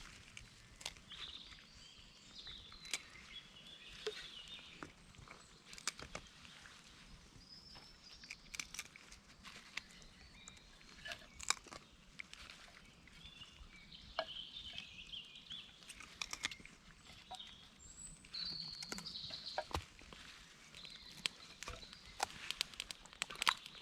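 Woodland birds singing in the background, with irregular sharp clicks and knocks throughout.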